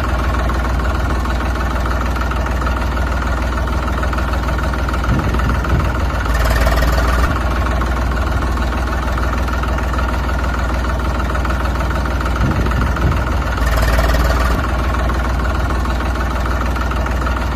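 An engine idling steadily with a deep rumble, swelling briefly twice, about six and fourteen seconds in.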